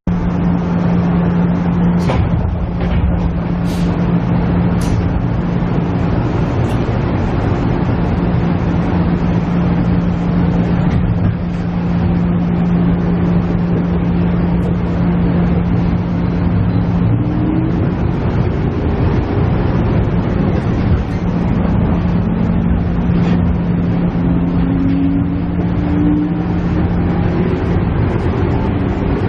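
KiHa E130 diesel railcar under way, heard from inside: its diesel engine drones steadily over the rumble of wheels on rail. A few sharp clicks come in the first five seconds, and faint rising tones come near the middle and again near the end.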